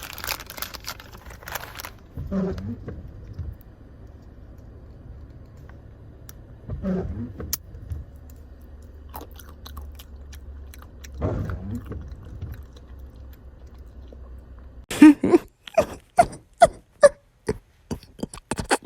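Someone chewing and crunching food, over a low steady hum. Near the end comes a quick run of sharp clicks.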